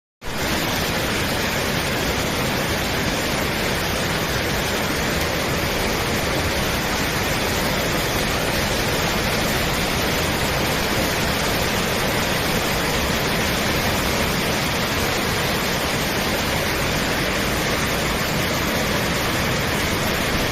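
Steady, even hiss of rushing noise, like static or pink noise, cutting in suddenly at the start and holding unchanged throughout.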